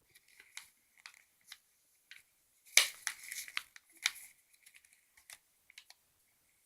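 A sheet of paper rustling and being creased as a paper airplane's wing is folded, in scattered small rustles with a louder crinkling stretch about three seconds in.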